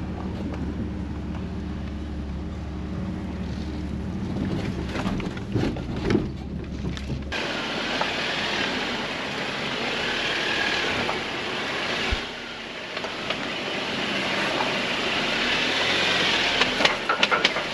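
Jeep engine running low and steady while crawling a tight off-road trail. About seven seconds in, the drone gives way abruptly to a noisier rushing hiss, with a few sharp knocks and clatters near the end.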